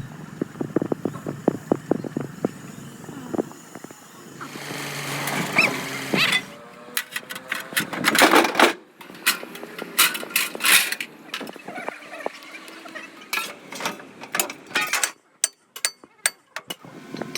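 Metalworking noise: a quick run of sharp strikes, then a couple of seconds of steady rising noise, then a string of sharp knocks and clicks broken by sudden cuts.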